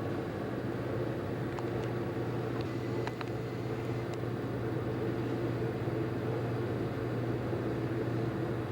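Steady low mechanical hum that does not change, with a few faint ticks about two to four seconds in.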